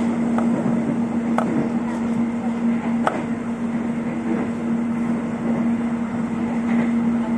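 Airport rail link electric train running, heard from inside the carriage: a steady hum over even running noise, with two sharp clicks about a second and a half and three seconds in.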